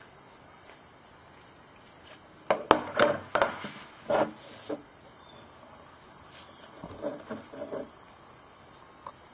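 Metal parts and tools clinking and knocking against each other as they are handled, in a quick cluster of sharp clinks a few seconds in, then a few softer taps near the end.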